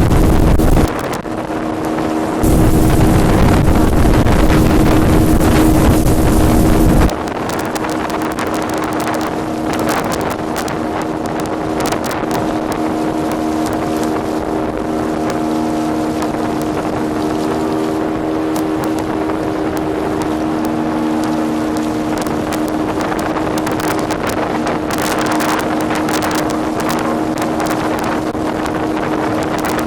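Motorboat engine of a korjaal speed boat running at a steady pitch under way. Heavy wind buffets the microphone for the first several seconds, then eases.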